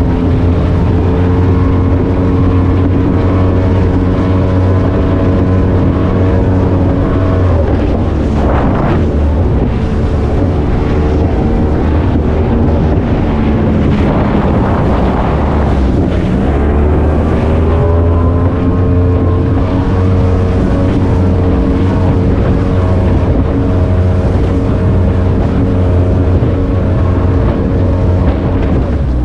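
Speedboat engine running hard, with wind noise on the microphone; its pitch sags about halfway through and climbs back up.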